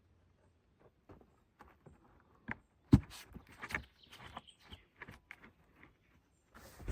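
Wood and branches being handled: irregular clicks, knocks and rustles, with one sharp knock about three seconds in.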